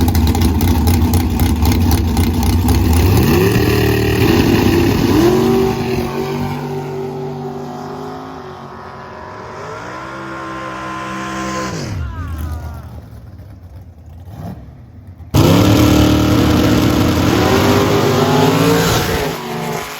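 Drag racing car's engine running hard down the strip, rising in pitch through several gear changes and then fading away. An abrupt cut brings in a second loud stretch of the engine climbing through gears again.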